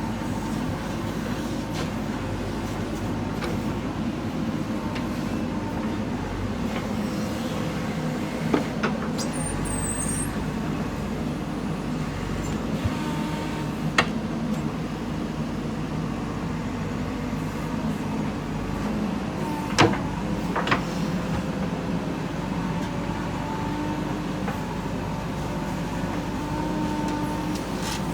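Diesel engine of a JCB backhoe loader running steadily while it loads soil into a dump truck, with a few sharp knocks scattered through.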